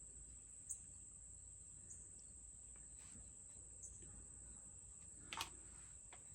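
Steady high-pitched chirring of insects, with a few faint clicks and one louder click about five seconds in from handling the plastic feeder port and washer.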